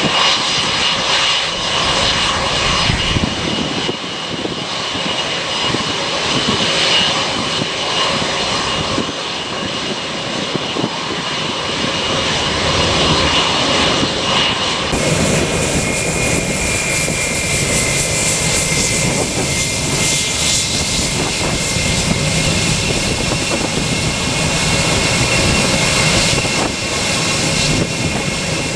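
Airliner engines running loud and steady, a roar with a high whine over it. About halfway through the whine drops slightly in pitch and the low rumble grows.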